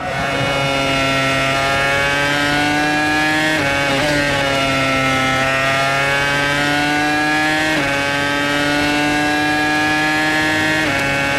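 2005 Formula One car's 3.0-litre V10 engine at full throttle, its high-pitched note climbing slowly as it pulls along a straight, with brief breaks at upshifts about three and a half, eight and eleven seconds in.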